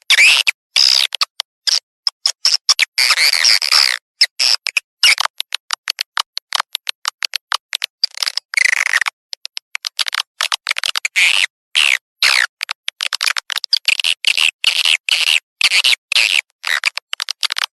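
Swiftlet lure-call recording: dense, rapid chirping and twittering of edible-nest swiftlets, chopped by many abrupt short silences. It is the kind of call played from tweeters to draw swiftlets into a swiftlet house.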